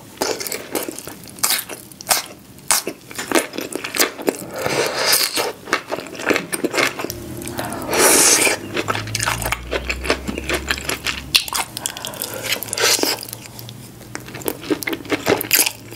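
Close-miked eating: irregular crunching, chewing and wet mouth sounds as a mouthful of cheesy corn and fried chicken is bitten and chewed.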